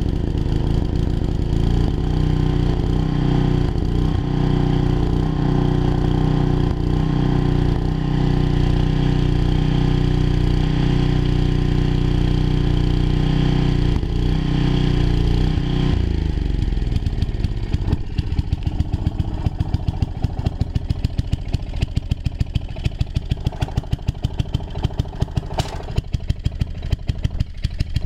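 10 hp Briggs & Stratton engine on a portable generator running steadily at speed. About two thirds of the way through, its pitch drops and it settles into slower running with distinct, regular firing pulses.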